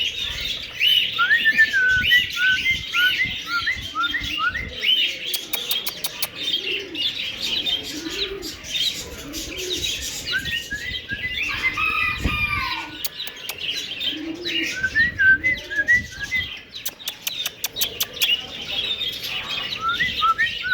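Several cockatiels chirping over and over in short rising calls, with a few bursts of wing flapping and clicks.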